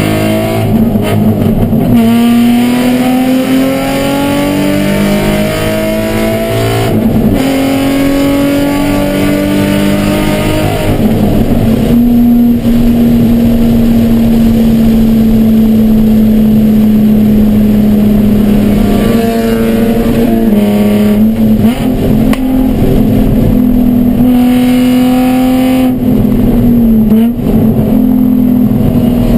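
Nissan 350Z's 3.5-litre V6 race engine at full throttle, heard from inside the cabin: the engine note climbs in pitch through each gear, drops at upshifts about two, seven and twenty-seven seconds in, and holds one steady note for several seconds in the middle. The car is being short-shifted and is down on power because of an ECU fault.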